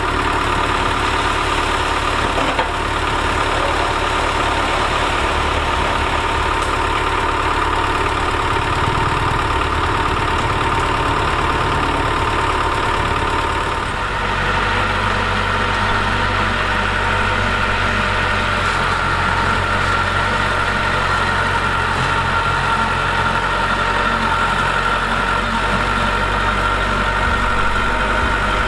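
Heavy diesel engine of earthmoving machinery running steadily, its note shifting about halfway through.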